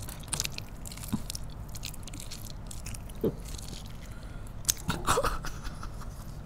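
Close-up biting into and chewing a chocolate-coated fried banana, with scattered small crackles and clicks of the food and mouth. A brief voice sound about five seconds in.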